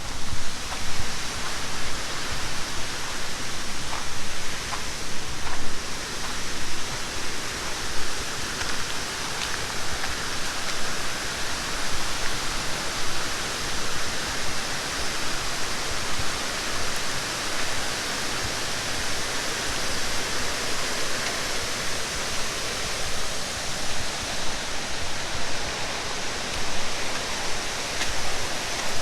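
Steady rushing of falling water, an even hiss-like wash with no break.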